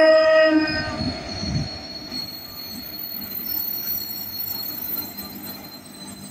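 Indian Railways electric locomotive sounding its horn, which cuts off about a second in. Then the passenger train rumbles past as it draws into the platform, with a thin, steady high squeal from the wheels.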